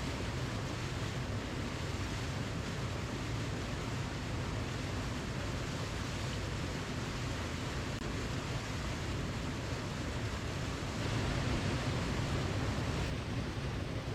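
Waterfall: a steady rush of falling water, swelling slightly for a couple of seconds near the end.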